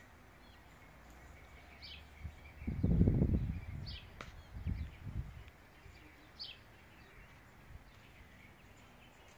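A bird giving a short high chirp about every two seconds over faint outdoor background noise. A loud low rumble on the microphone comes about three seconds in, with a smaller one near five seconds.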